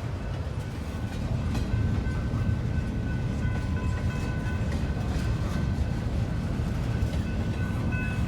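Norfolk Southern intermodal freight train rolling slowly past, a steady low rumble with a faint high squeal now and then and scattered clicks of the cars' wheels.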